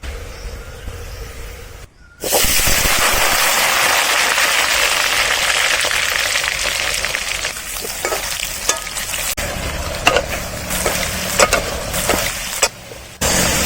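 Food sizzling in hot oil, louder from about two seconds in. In the second half, a utensil clicks and scrapes against the cooking vessel as the food is stirred.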